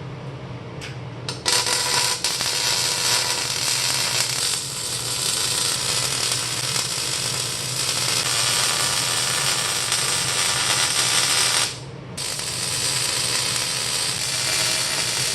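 Electric welder running two long weld passes: a steady, loud crackle of the arc over a low hum, with a brief stop about twelve seconds in before the second pass.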